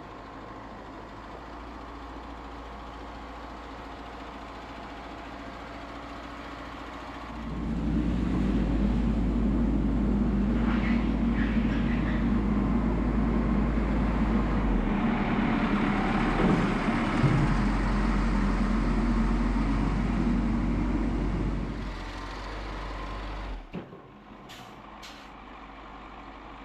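Heavy vehicle engine running steadily, then revving up about seven seconds in and working hard for around fourteen seconds before easing back and cutting off, with a few short sharp clicks just after.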